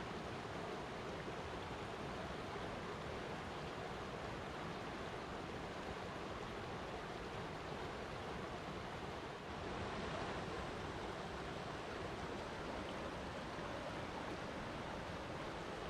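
Flowing water rushing steadily. About nine and a half seconds in it dips briefly, then comes back a little brighter and louder.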